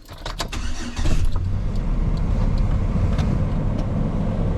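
A few clicks, then about a second in the steady low rumble of a pickup truck driving sets in: engine and road noise.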